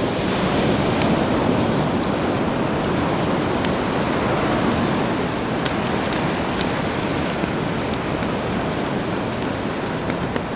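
Sea surf washing steadily, swelling a little and easing off, with a campfire's crackle of sparse sharp pops over it.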